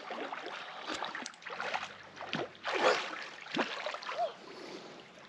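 Water splashing and lapping in irregular bursts, with one brief faint voice-like sound near the end.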